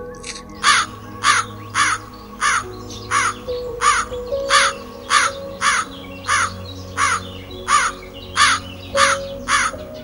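A bird giving a long series of short, harsh, caw-like calls, about two a second, over background music with steady held notes.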